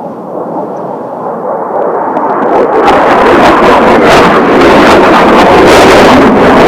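Kawasaki T-4 jet trainers flying low over the field. Their twin-turbofan engine noise builds over about three seconds to a loud, steady rush and holds there.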